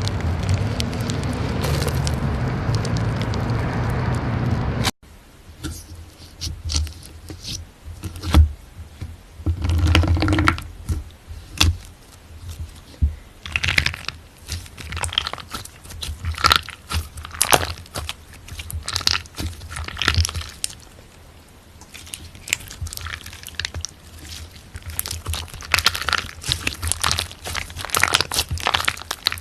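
A loud, steady noise for about the first five seconds, then a sudden cut to slime being squeezed and pressed by hand, with irregular crackling and crunching pops.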